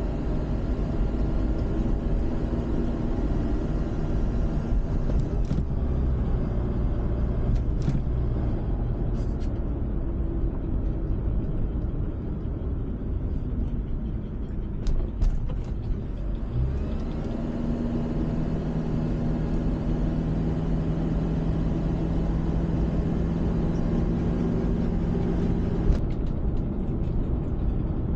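Car engine and road noise heard from inside the moving car, a steady low rumble. A few sharp knocks come about fifteen seconds in, and a steady engine hum comes through for a while after that.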